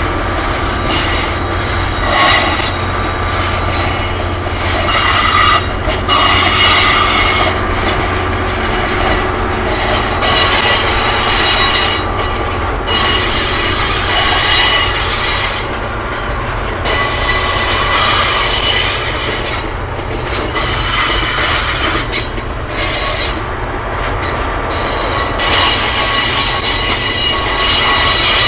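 Freight train of HYA bogie hopper wagons rolling past, its wheels squealing in several steady high tones and clicking over the rail joints. A low drone, most likely from the Class 66 diesel locomotive at its head, stops about eight seconds in as the locomotive draws away.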